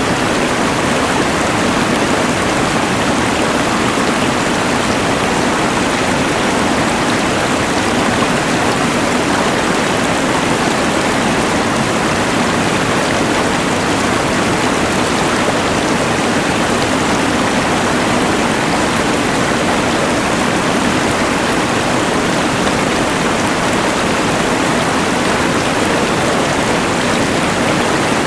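Rushing mountain river blended with the hiss of a LectroFan white noise machine: a loud, steady wash of water noise.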